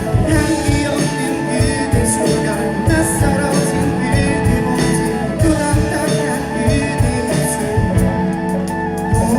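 Live rock band playing an instrumental passage, with guitar over a steady drum beat.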